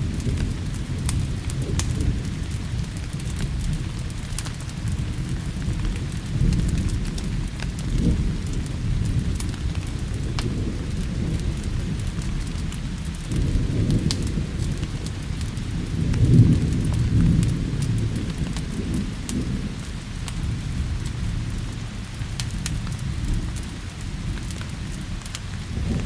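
Steady rain with low rolling thunder that swells twice, around the middle of the stretch, mixed with scattered small sharp crackles of a wood fire.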